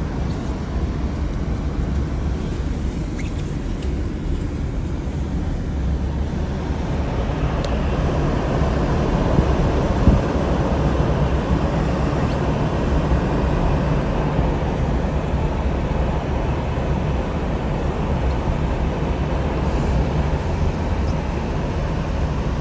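A car driving along: a steady low engine and road rumble, with tyre and wind hiss swelling from about a third of the way in. There is a single short knock partway through.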